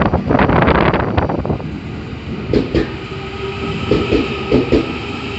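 Train running along a station platform: a loud rush of wheel noise at first, then a steady whine with paired clacks as the wheels cross rail joints.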